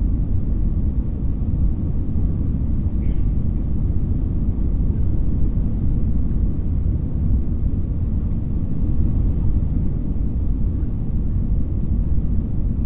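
Steady low rumble of an airliner passenger cabin: engine and airflow noise heard from inside the plane, with a faint click about three seconds in.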